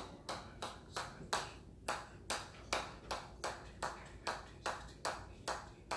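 Hammer striking a steel anvil in a steady rhythm, about two and a half blows a second, each with a short metallic ring: a counted hammer-control drill.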